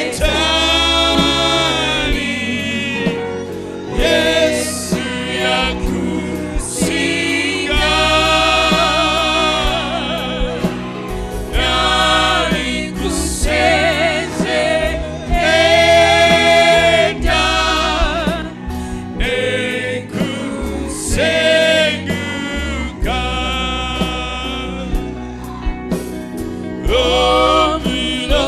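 Gospel singing by a group of voices over bass and keyboard accompaniment, with long held, wavering notes.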